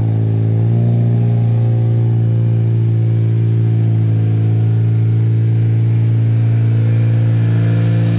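10th-gen Honda Civic Si's 1.5-litre turbocharged four-cylinder engine running steadily, a loud even hum that holds one pitch.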